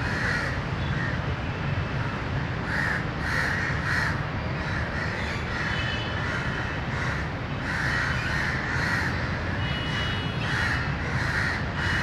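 Crows cawing repeatedly in runs of harsh calls, over a steady low background rumble.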